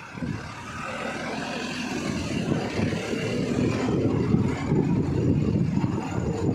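A motor vehicle running, a steady engine and road rumble that swells over the first second or so.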